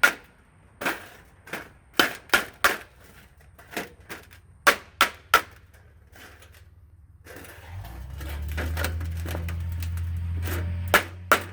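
Hammer blows on sheet metal, folding over a hem: a string of sharp, separate strikes at an uneven pace. A steady low hum comes in about eight seconds in.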